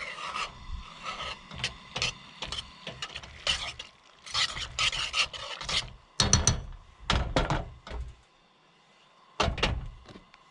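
Irregular scraping, rubbing and knocking of a utensil and cookware while food is handled and stirred, with a louder run of knocks and scrapes about two-thirds of the way through.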